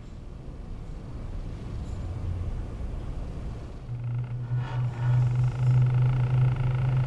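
Vehicle rumbling, then a steady low motor hum with higher whining tones joining about four seconds in and growing louder.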